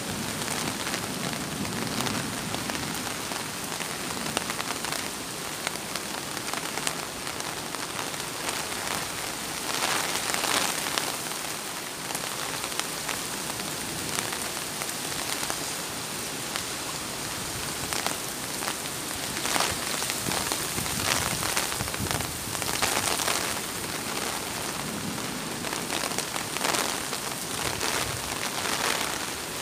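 Heavy rain falling on a wet road, a steady hiss that swells in loudness now and then.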